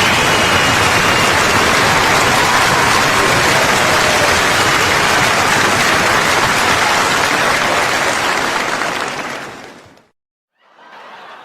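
Applause from a large crowd, a dense steady clatter of many hands clapping, fading out about two seconds before the end. A new round of applause starts quietly just after and builds.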